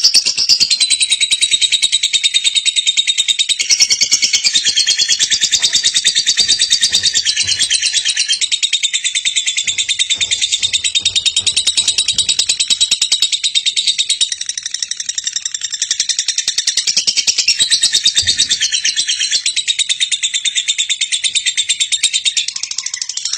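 Female lovebird singing a long, unbroken, high-pitched chattering trill of very fast, evenly spaced chirps.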